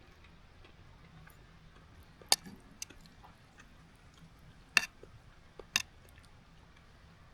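A few sharp clicks or taps over a quiet background: three loud ones spread across a few seconds, with a couple of fainter ones between.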